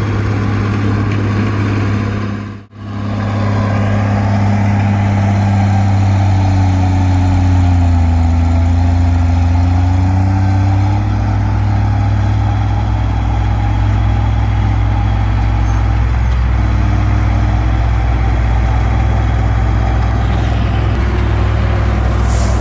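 Komatsu D20P bulldozer's diesel engine running steadily with a deep hum. The sound cuts out for a moment between two and three seconds in, and around the middle the engine note sags slightly and comes back up.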